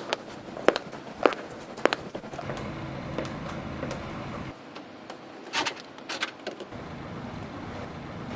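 Low steady rumble of a car engine, broken by sharp clicks: a run of evenly spaced clicks in the first two seconds and another cluster about halfway through. The rumble drops out briefly near the middle.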